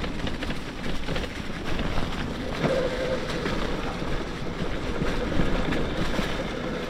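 Electric mountain bike on a trail ride: wind rushing over the microphone and tyres and frame rattling over rough ground, with the Bafang BBSHD mid-drive motor whining faintly, wavering in pitch, from about a third of the way in.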